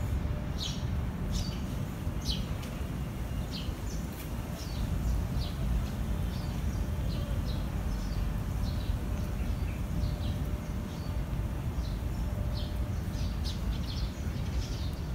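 Small birds chirping in short, high calls, one or two a second, over a steady low rumble.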